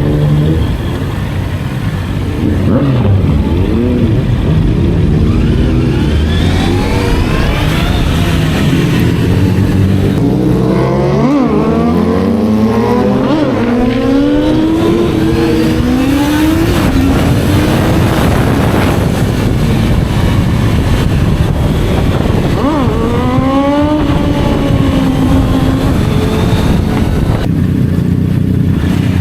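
Sport motorcycle engines revving up and down as they accelerate through the gears, the pitch repeatedly climbing and then dropping, over a steady rush of wind.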